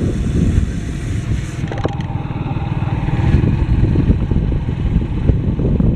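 A motorcycle engine running steadily while being ridden, with low wind rumble on the microphone.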